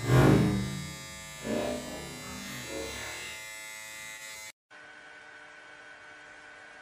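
Steady electric buzz from a small motor, with a loud bump just after the start and a smaller one about a second and a half in. It cuts off suddenly about four and a half seconds in, leaving only a faint steady hum.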